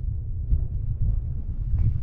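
Strong wind buffeting the microphone: an uneven low rumble.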